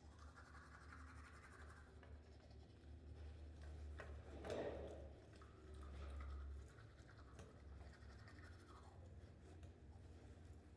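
Near silence: a low steady hum with a few faint brief noises, the loudest a short swell about four and a half seconds in.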